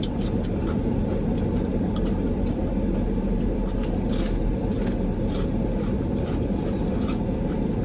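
Steady rumble and hiss of a car's engine idling, heard from inside the cabin, with a few faint clicks on top.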